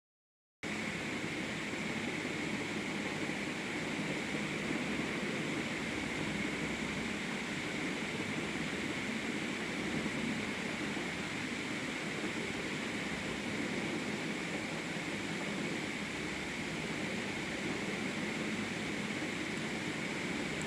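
Isuzu truck running: a steady, even noisy rumble that starts abruptly about half a second in.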